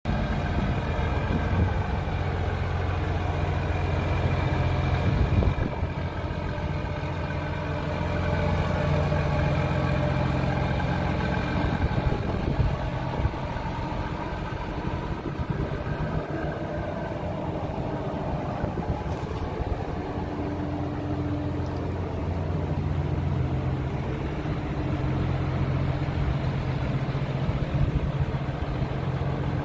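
John Deere 7810 tractor's six-cylinder diesel engine running steadily at idle.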